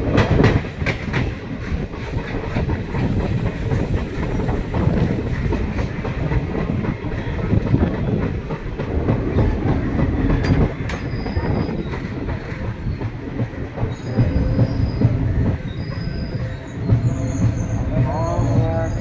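Train running along the track: a steady rumble of the wheels on the rails with irregular clicks, and short faint high squeals now and then.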